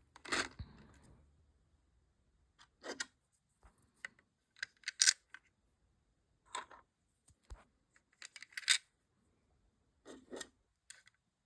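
Small plastic LEGO pieces clicking and clattering as they are handled and fitted, in scattered sharp clicks with gaps of quiet between them.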